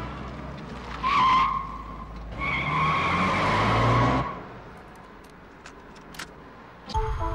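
Tyres squealing twice as a vehicle corners hard: a short squeal about a second in, then a longer one lasting nearly two seconds.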